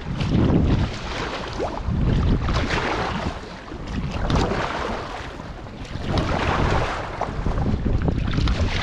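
Wind buffeting the microphone with a heavy low rumble, over paddle strokes splashing in the water about every two seconds.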